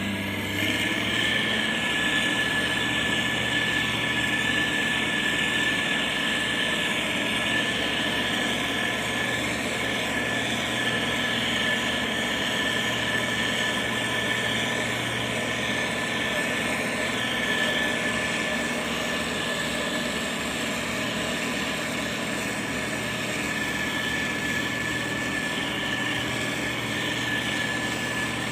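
Heavy road-construction machine's diesel engine running steadily, with a steady high whine over it.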